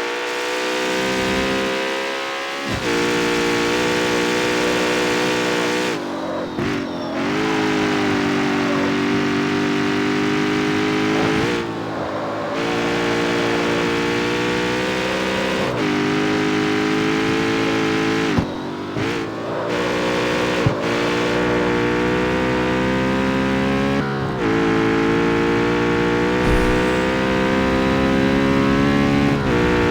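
Jaguar F-Type's V8 engine and exhaust under acceleration: the engine note climbs gently, then drops sharply at each gear change or lift-off, about every three to six seconds, with brief crackles in the short gaps.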